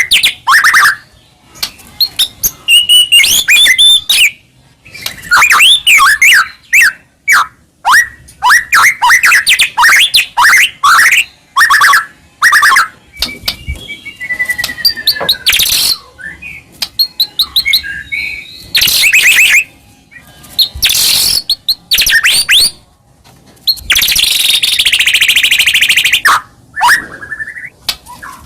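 White-rumped shama (murai batu) singing a loud, continuous, varied song: rapid strings of whistled notes and quick pitch glides, with several harsh, buzzy notes mixed in.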